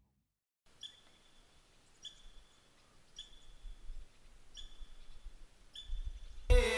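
A bird calling faintly, the same short high chirp repeated about once a second over a quiet outdoor hush. Near the end, music starts abruptly and loud.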